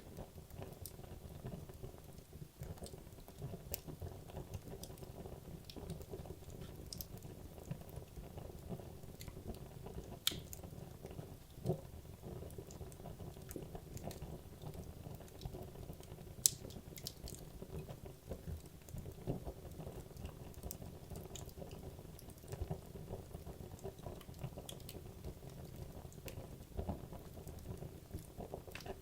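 Wood logs burning in a fireplace: a steady low rumble of flame with irregular sharp crackles and pops from the firewood, one louder pop about halfway through.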